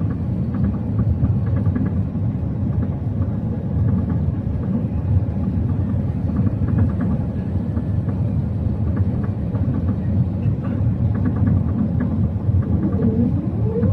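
Steady low rumble of an Airbus A380 heard from inside the passenger cabin on approach. Near the end a whine starts and rises steeply in pitch: the strange sound heard during the approach.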